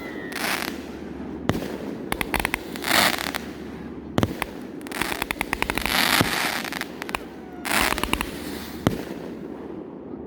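Consumer firework cakes firing: a string of sharp shot reports and bursts, with hissing lifts between them and runs of rapid crackling about two seconds in and again between five and six seconds.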